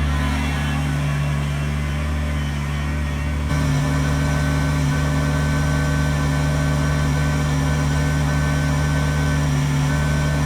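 Kubota BX23S sub-compact tractor's three-cylinder diesel engine running steadily, with a thin high whine riding on top. It gets slightly louder about three and a half seconds in.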